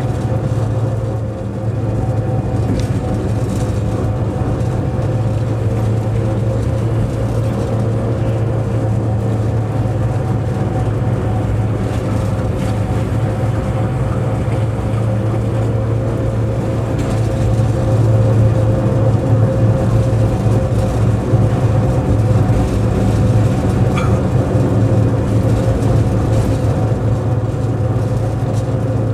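Locomotive running, heard inside the driver's cab as a steady drone: a strong low hum with a steady higher tone over it.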